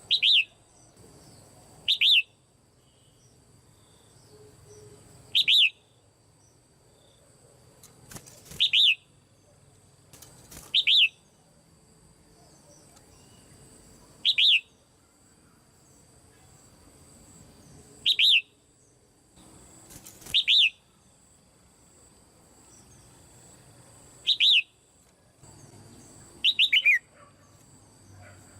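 Female red-whiskered bulbul in a cage giving short, sharp calls, about ten of them, one every two to four seconds, each a quick downward-sweeping note. The last call, near the end, comes as a quick double.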